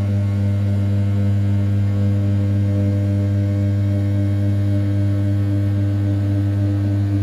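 500 W brushless spindle of an RZ420 desktop CNC mill turning at 6000 rpm, its end mill roughing the outside profile of an A7075 aluminium block. The sound is a steady, even hum at one constant pitch.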